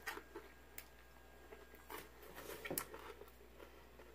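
Faint chewing of a piece of toast with a chocolate-flavoured spread, with a few irregular crisp crunches and a cluster of bites midway.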